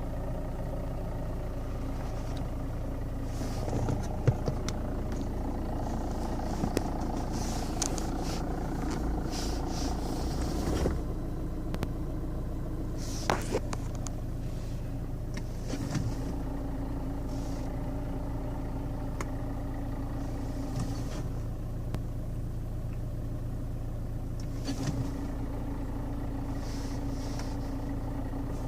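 Alfa Romeo 159's 1.9 JTDm four-cylinder turbodiesel idling steadily, with a few sharp knocks along the way. It is running with a newly fitted clutch and dual-mass flywheel that have begun making noise again, including a clunk when the clutch is pressed to change gear.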